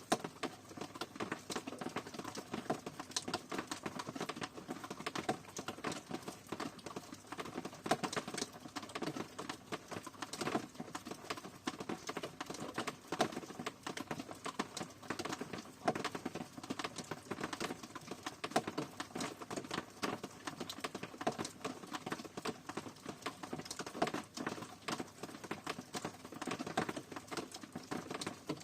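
Steady rain: a dense, irregular patter of separate raindrops ticking, with no let-up.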